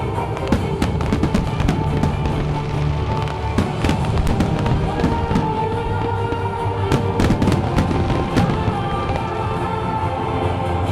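Fireworks show: aerial shells bursting in a rapid string of sharp bangs and crackles, thickest about four seconds in and again around seven to eight seconds, over loud accompanying music.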